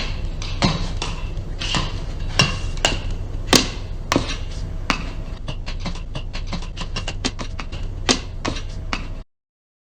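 Irregular sharp taps and knocks, some louder than others, over a low steady hum. The sound cuts off suddenly about nine seconds in.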